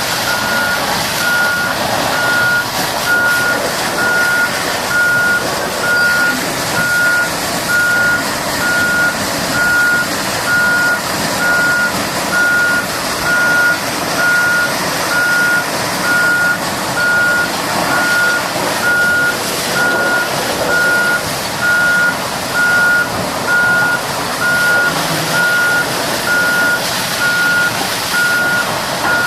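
Heavy equipment's reversing alarm, one steady high beep about once a second, over a constant noisy background.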